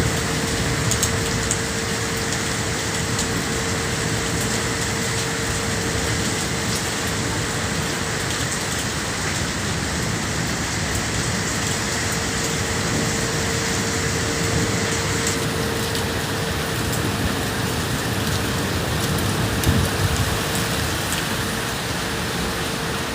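Rain falling steadily: a continuous hiss with scattered drops ticking, over a faint steady hum.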